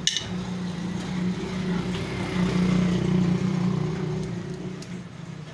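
A motor vehicle's engine running nearby, its hum swelling about two seconds in and fading again toward the end, like a vehicle driving past. A single sharp metal click comes right at the start.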